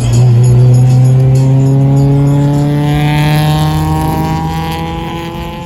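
A car engine accelerating away, its note rising steadily in pitch while the sound fades, over a steady low drone.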